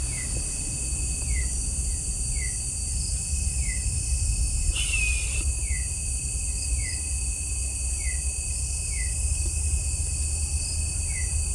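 Night-time forest insect chorus: steady high-pitched cricket trilling, with a short falling chirp repeating about once a second and a low rumble underneath.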